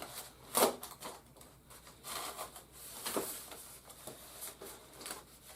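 Cardboard toy box and its sealed packaging being opened and handled: irregular rustling, scraping and clicks, with a sharp knock about half a second in and another near the middle.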